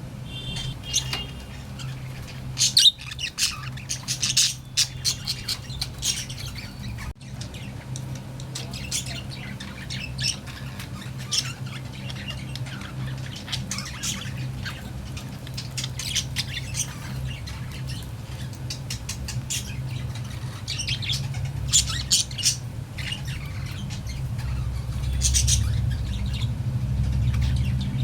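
Budgerigars chattering, with frequent short, sharp squawks and chirps, over a steady low hum.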